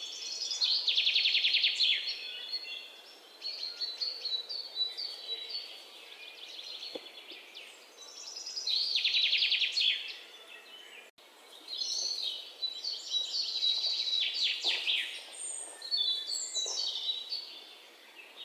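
Birds singing and chirping outdoors. A loud phrase of fast trilled notes comes twice, about eight seconds apart, with shorter chirps and calls in between.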